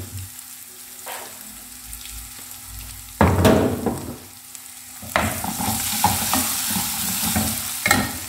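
Fried onions, garlic and red chilli powder sizzling in hot oil in an aluminium pot, stirred with a plastic spoon. Loud stirring scrapes come suddenly about three seconds in and again about five seconds in, and the sizzle then hisses louder for a few seconds.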